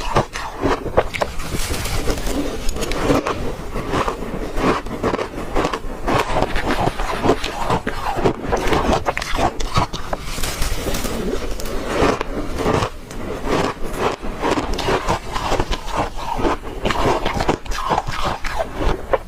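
Ice being chewed close to the microphone: continuous crunching, dense with sharp cracks.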